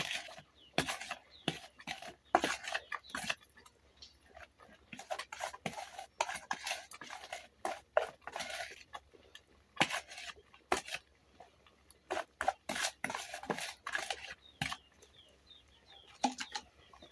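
Wooden cooking stick knocking and scraping against a pot of porridge as it is stirred, in irregular strokes with short pauses between them.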